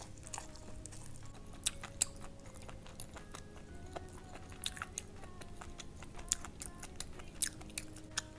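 A person chewing a mouthful of fried rice with meat: many sharp mouth clicks and small crunches at an irregular pace.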